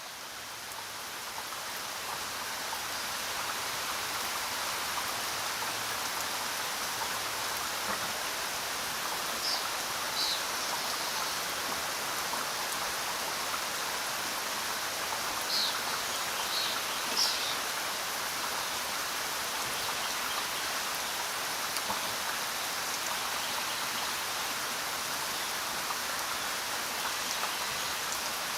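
Steady rain falling, fading in over the first few seconds and then holding even. A few short, high chirps come through in the middle.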